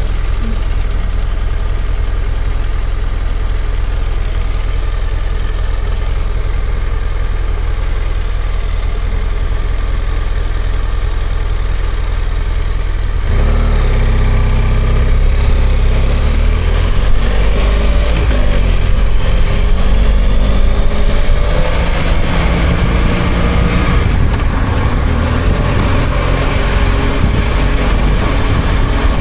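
BMW F800GS parallel-twin engine idling steadily with a low rumble, then about thirteen seconds in pulling away and getting louder, the engine note climbing in several rising sweeps as it accelerates, with wind and road noise building.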